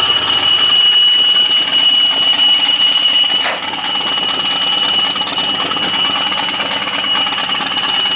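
Turbocharged straight-six engine of a Chevrolet Caravan race car idling steadily, with a steady high-pitched whine over it. It gets slightly quieter about three and a half seconds in.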